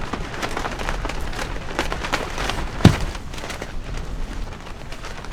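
Strong gusty wind rumbling on the microphone while shelter fabric flaps and snaps in irregular cracks, with one sharp, loud crack about three seconds in.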